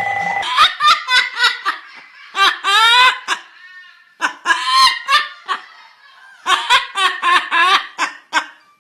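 Pet parrot imitating human laughter: several runs of rapid, high-pitched ha-ha-ha bursts with short pauses between them.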